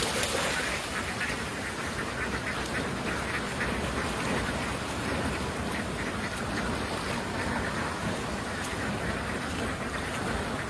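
A large flock of domestic ducks quacking all at once: a dense, steady din of many overlapping calls.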